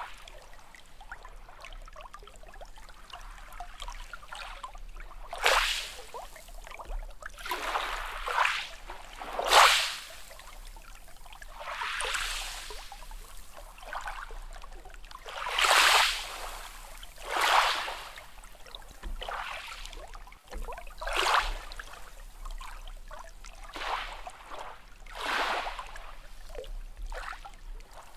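Small sea waves lapping and splashing: short, irregular washes every one to four seconds over a steady wash of water.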